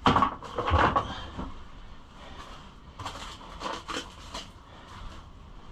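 Hard plastic body panels being handled and fitted to a pit bike: a series of knocks and rattles, loudest in the first second, with another cluster about three to four seconds in.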